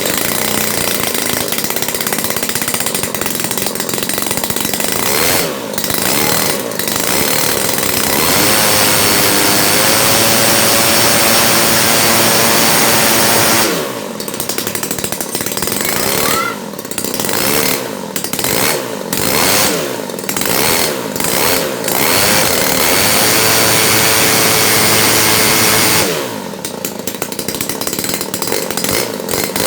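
Small grass-cutter engine on a test run as an aircraft engine, running hard. It revs up and holds high for several seconds, then is throttled down and up again and again from about halfway through.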